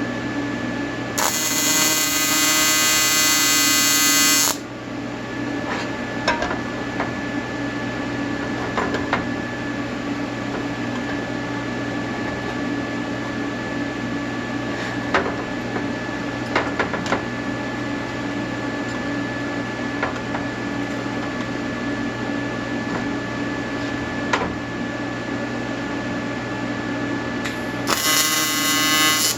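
TIG welding arc buzzing in two bursts, about three seconds long near the start and a second or so at the very end, over a steady electrical hum. Scattered light clicks fall between the bursts.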